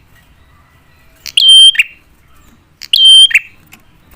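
Prinia (prenjak) calling: a loud, sharp call phrase heard twice, about a second and a half apart, each a short high whistle clipped at both ends. It is a lure call meant to make other prinias answer.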